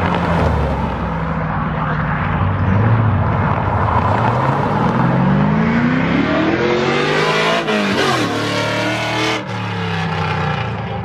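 Car engine running, then accelerating hard: its pitch climbs steadily for about three seconds, drops briefly as if at a gear change, then climbs again before cutting off sharply near the end.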